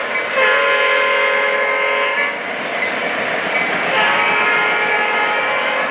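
Model train horn blowing two long blasts, the first about half a second in and lasting nearly two seconds, the second starting about four seconds in, over the steady running noise of the trains on the layout.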